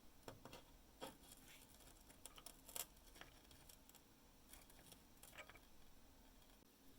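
Faint, scattered clicks and light taps, like small parts being handled, over a low steady hum. The sharpest tap comes about three seconds in.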